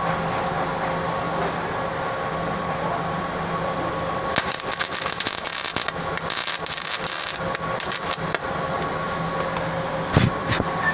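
MIG welder arc crackling steadily for about four seconds in the middle, over a steady hum of shop machinery. A short knock follows near the end.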